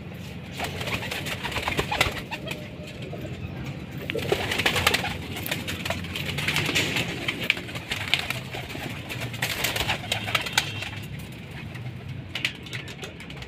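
Domestic Teddy pigeons cooing, with many short clicks and rustles from the birds moving about.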